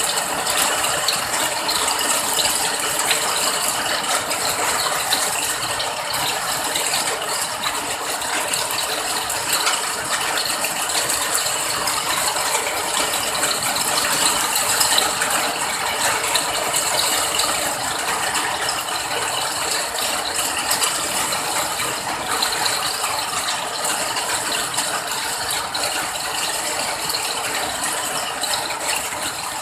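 Steady rain: a dense, even patter of drops that does not change.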